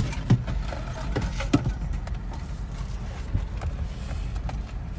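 Steady low rumble of a car heard from inside the cabin, with a couple of short knocks, one about a third of a second in and one about a second and a half in.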